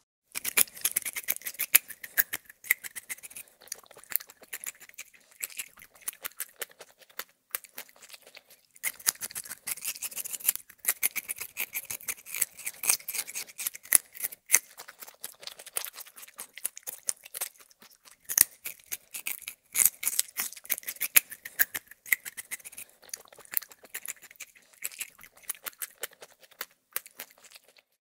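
A rabbit chewing hay: fast, irregular crisp crunching clicks, coming in stretches with short pauses between them.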